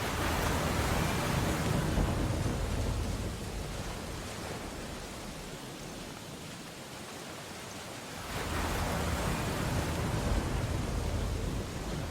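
Steady rain hissing on window glass, with two swells of storm waves crashing: one at the start lasting about three seconds, another about eight seconds in.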